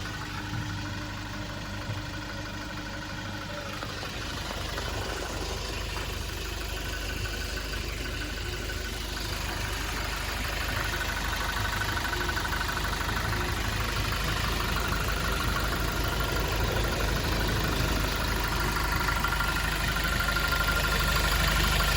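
Toyota Innova Crysta engine idling steadily during an engine carbon-cleaning treatment. It grows gradually louder, and a faint steady high whine comes in about halfway through.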